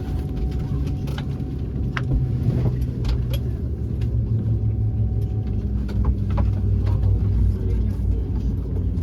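Steady low mechanical rumble with a droning hum, and a few faint clicks and taps over it.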